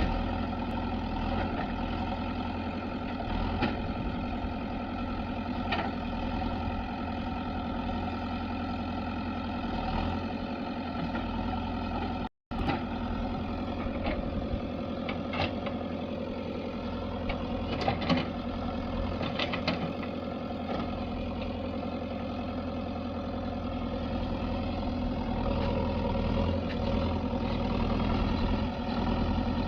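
Diesel engine of a JCB 3DX backhoe loader running steadily as it loads mud into a tractor, with several sharp clanks and knocks along the way. It cuts out for a split second a little before halfway and grows a little louder near the end.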